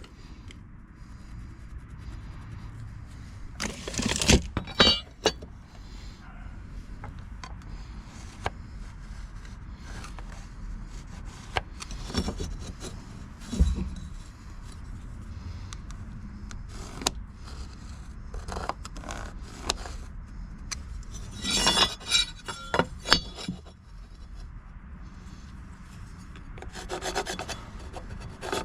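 Wood and tools being handled: scattered scraping, rubbing and clattering, with a few louder knocks and clatters about four seconds in, around thirteen seconds and around twenty-two seconds. No power saw is running.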